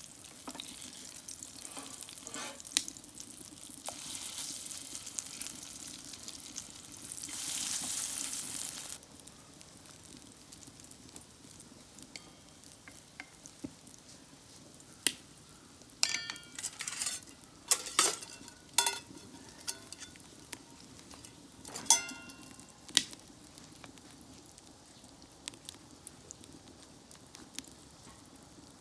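Food frying in a pan. The sizzle swells loudly for a few seconds, then dies down. Later come several sharp knocks, each with a short ring, as a utensil strikes the pan.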